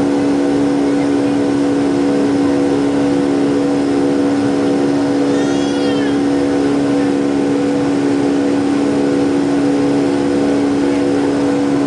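Boeing 757-200's twin turbofan engines running steadily at high power just after takeoff: a loud, constant hum with one strong low tone over a steady rush of noise.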